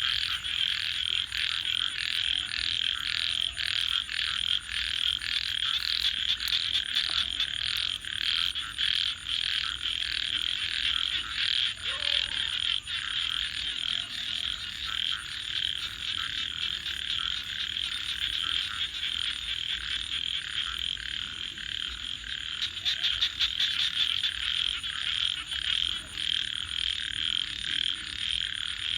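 A dense chorus of frogs calling in fast pulsed trills, steady throughout, with the scattered faint crackle of a wood campfire.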